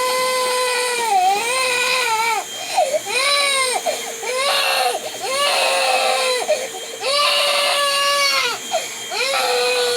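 A baby crying in a run of drawn-out wails, each about a second long and rising then falling in pitch, upset by the noise of a vacuum cleaner running in the next room. The vacuum's steady hum runs underneath.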